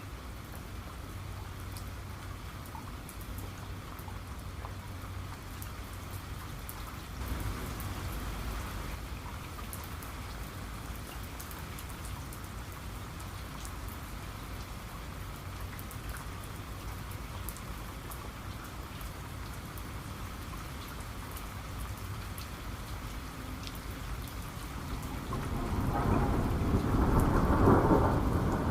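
Steady rain falling, with a low rumble of thunder that builds near the end.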